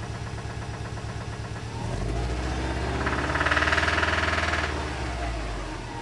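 2008 Subaru STI's turbocharged 2.5-litre flat-four idling with a regular knock, then revved up from about two seconds in and let back down near the end. The knock comes from a failing connecting-rod bearing, the number 3 rod.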